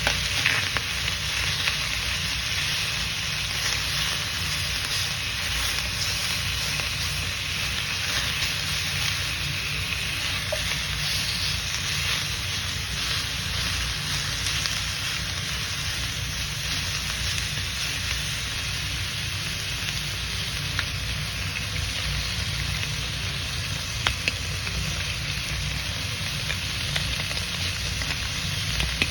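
Chicken drumettes sizzling in a pan: a steady hiss with a few faint clicks.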